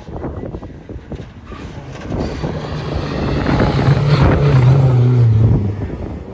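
Rally car approaching at speed and passing by, its engine note building to loudest about four to five seconds in, dropping in pitch as it goes by, then fading away.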